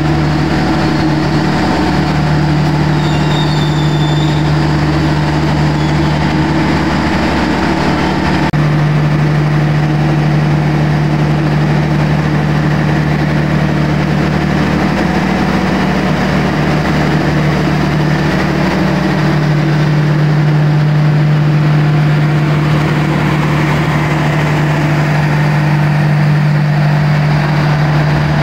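Passenger train rolling slowly past a station platform, with a steady low diesel engine hum over the rolling noise. The sound changes abruptly about eight seconds in.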